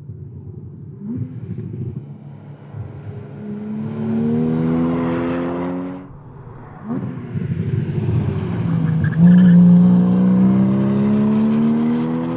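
Porsche Cayman S's 3.4-litre flat-six accelerating hard, its note rising. About six seconds in it lifts off and drops in pitch, then pulls again with the pitch climbing to the end.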